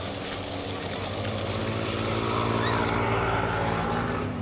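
An engine running steadily, with an even pitched hum that grows louder through the middle and drops away near the end, as if passing.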